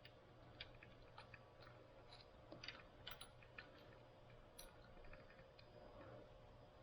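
Near silence broken by faint, irregular small clicks and taps of metal tools and parts being handled, a little busier around the middle.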